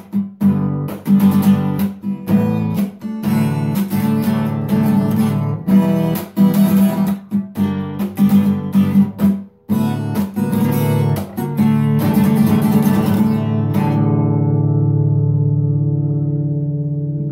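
Acoustic guitar strumming a steady rhythm of chords, with short choppy breaks between strokes. About fourteen seconds in, the strumming stops and the last chord is left ringing, slowly fading.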